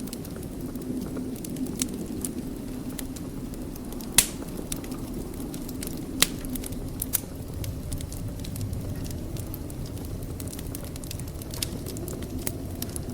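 Wood fire burning in a fireplace: a steady low rushing under scattered sharp crackles and pops, the loudest pop about four seconds in and another about six seconds in.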